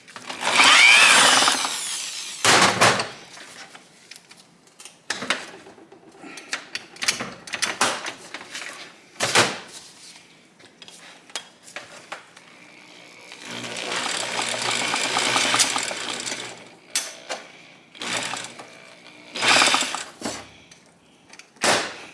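Transmission of a Honda SL125 engine being turned over by hand while it is shifted through its gears: bursts of rapid mechanical rattling as the gears spin, with several sharp clunks between them.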